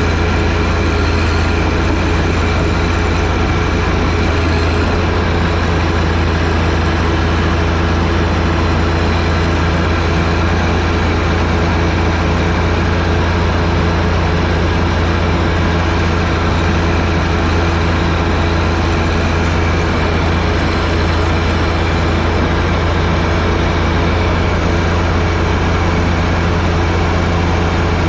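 John Deere 1025R compact tractor's three-cylinder diesel engine running steadily with a strong low hum, likely driving the 47-inch front snowblower.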